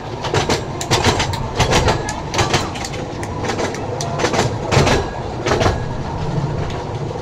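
Small ride-on passenger train running along its track, heard from aboard: a steady low rumble with frequent, irregular clacks and rattles from the wheels and carriage.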